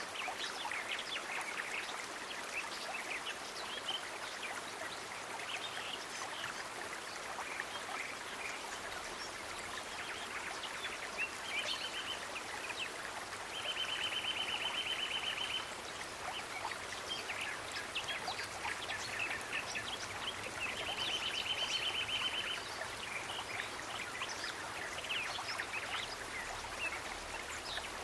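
Nature ambience: a stream running steadily under many birds chirping. Twice, about halfway through and again about three-quarters through, a buzzy trill near 3 kHz runs for about two seconds.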